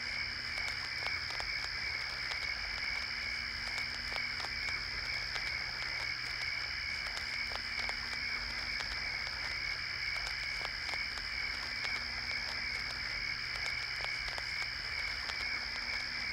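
Night-time chorus of frogs and insects: a steady high-pitched trilling drone with scattered short clicks and croaks, and a low hum beneath it.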